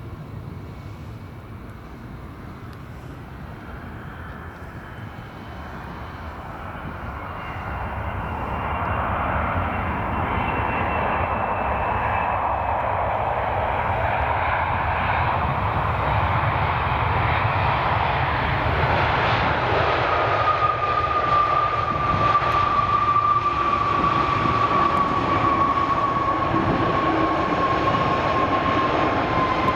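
Jet aircraft on approach to land, its engine noise growing louder over the first ten seconds and then holding steady. In the second half a high whine slides slowly down in pitch.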